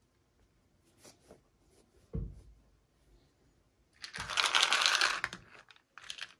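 Toy packaging being handled: a low thump about two seconds in, then a burst of dry plastic and cardboard rustling for about a second and a half, and a short rustle near the end.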